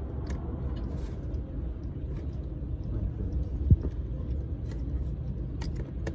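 Steady low mechanical rumble with scattered light clicks, and a single dull knock about three and a half seconds in.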